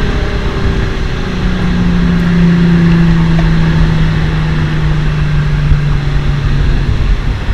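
Straight-piped Audi 2.7 TDI V6 diesel engine with no muffler, running with a loud, steady drone whose pitch slowly falls as the revs ease down.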